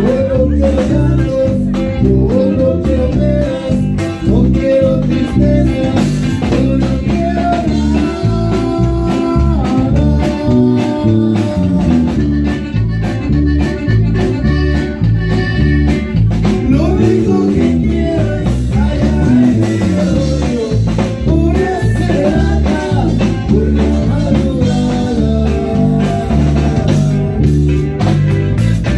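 Live norteño band music with a steady beat: plucked guitar, bass and drums, with some singing.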